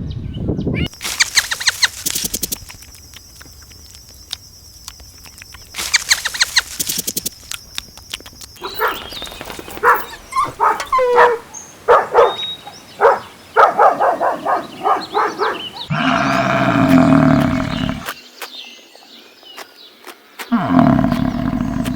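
A sequence of different animal calls: two stretches of rapid pulsed calls, then a run of short pitched calls. Near the end come two long, loud, low calls.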